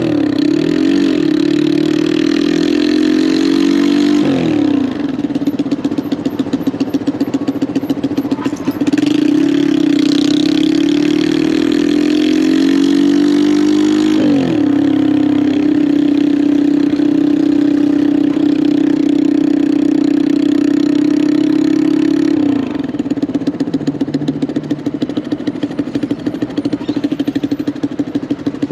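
Lifan KP200 200cc motorcycle engine running under way, its revs climbing and then dropping sharply with gear changes a couple of times. It then holds a steady cruising note, and near the end the revs fall away to a lower, choppier putter as the bike slows.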